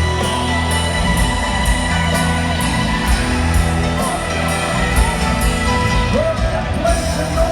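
Live rock band playing an instrumental passage between sung lines: sustained chords over a heavy bass, with a held note sliding up and holding about six seconds in.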